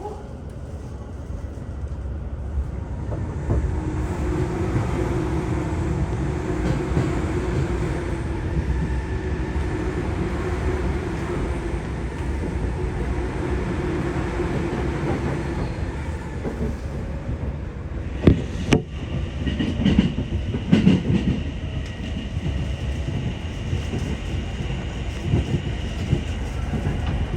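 Inside a Sobu Line local electric commuter train pulling away and gathering speed. The running noise builds over the first few seconds, with a steady motor hum, then several sharp clacks of the wheels over rail joints about two-thirds of the way through.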